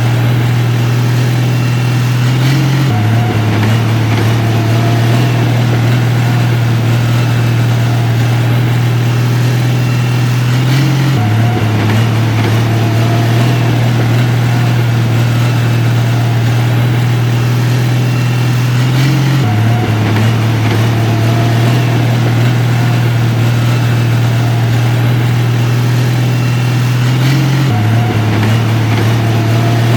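Heavy construction-machine engine running steadily with a deep hum. The pitch dips slightly about every eight seconds in a repeating pattern.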